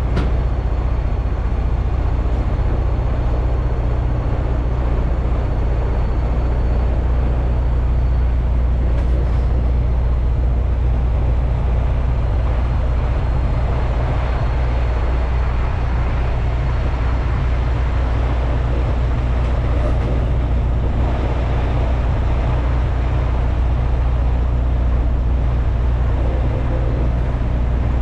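Semi-truck's diesel engine running with a steady low drone, mixed with road and cab noise as the truck is driven.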